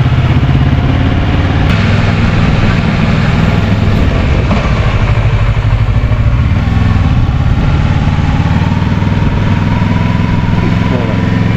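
Kawasaki Versys 650's parallel-twin engine running steadily while the motorcycle is ridden.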